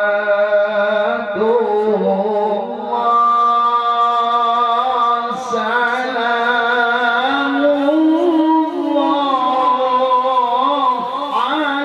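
A male qari chanting Quranic verses in the melodic tilawah style, holding long notes with wavering ornaments.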